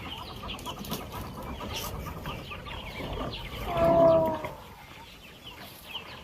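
Birds calling: many short chirps throughout, with one louder drawn-out call about four seconds in.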